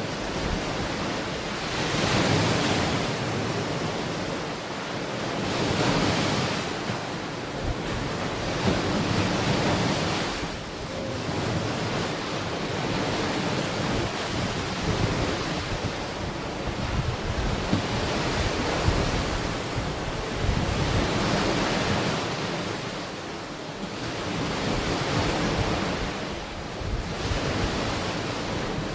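Ocean waves breaking and washing onto a beach, swelling and fading every few seconds, with wind buffeting the microphone.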